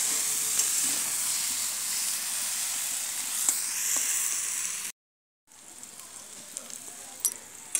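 Vegetables sizzling in hot oil in a wok over a wood fire, with a few light clicks from the stirring spatula. The sizzle is loud and steady for about five seconds, breaks off for half a second, then goes on much quieter.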